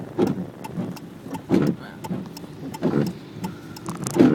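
Car windshield wipers sweeping across a rain-wet windshield, four strokes a little over a second apart, with light ticks of rain on the car.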